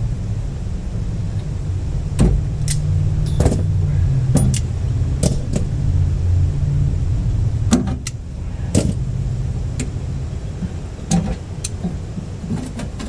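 A steady low hum that eases off about eight seconds in, with about ten scattered clicks and light knocks of parts and tools being handled.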